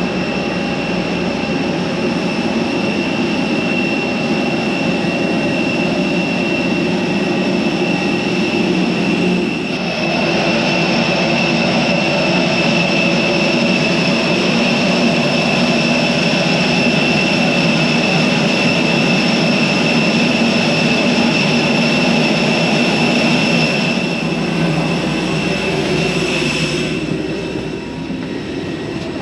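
Steady, loud ramp noise with a constant high whine, typical of a parked airliner during boarding. It shifts in character about ten seconds in and again near the end.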